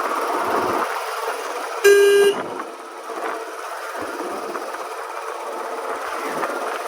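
Royal Enfield Standard 350's single-cylinder engine running on the move, with a single short vehicle horn toot about two seconds in.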